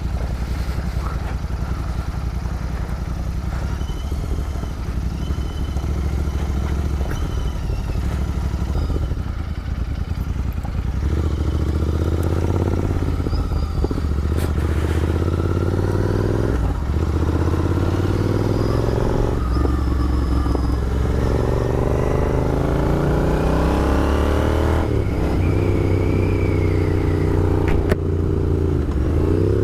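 Royal Enfield Interceptor 650's parallel-twin engine running steadily at low revs, then pulling harder from about a third of the way in. The engine note climbs and then drops sharply at each of several gear changes.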